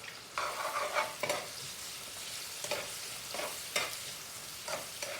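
Chopped onion with garlic and pepper blend sizzling steadily in hot oil, with a utensil stirring and scraping against the pot in short strokes every half second or so.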